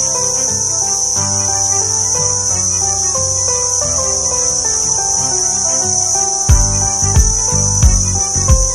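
Loud, steady, high-pitched forest insect chorus, taken on the trail for crickets. About three-quarters of the way in, regular low thumps of walking footsteps join it.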